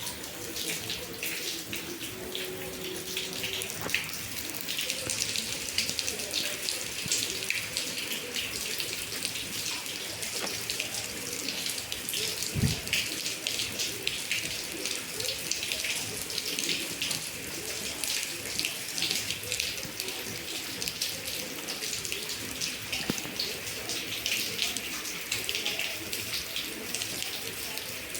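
Heavy rain falling steadily and splashing, with many close drops and running water. One short low thump about halfway through.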